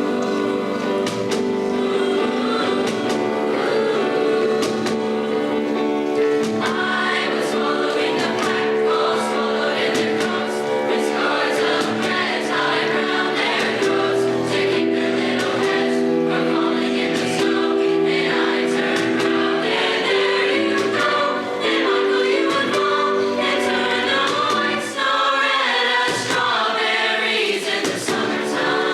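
High school choir singing in harmony, holding chords with moving vocal lines.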